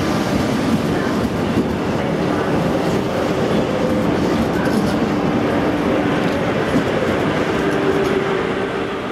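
Deutsche Bahn ICE electric train rolling past along the platform close by. It makes a steady rumble of wheels on rail with a faint hum and a few clicks, and eases off right at the end.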